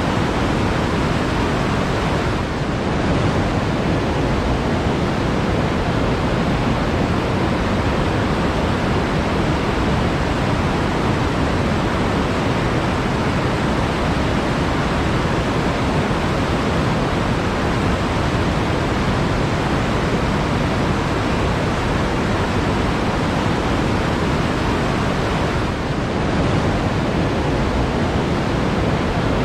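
Flowing water rushing steadily, a dense even noise with no separate splashes standing out.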